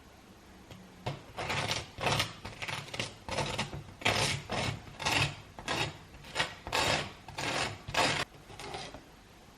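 Repeated rasping, scraping strokes in the kitchen, two to three a second, starting about a second in and stopping shortly before the end.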